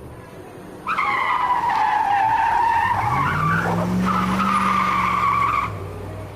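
Electronic race-car sound effect: a tyre-screech tone that dips and rises for about five seconds, with a low engine hum joining midway, then cuts off suddenly.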